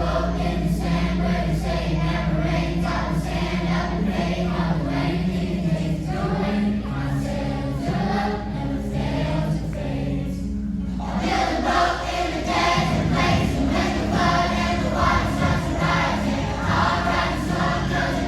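A children's choir singing a Christian praise song, with a brief break between phrases about ten seconds in.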